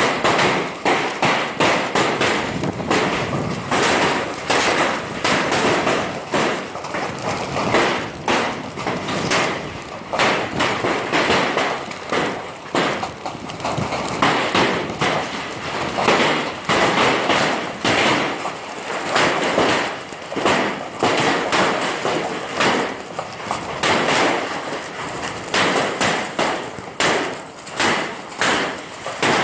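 Hailstorm: hailstones hitting hard surfaces in a dense, unbroken clatter of knocks.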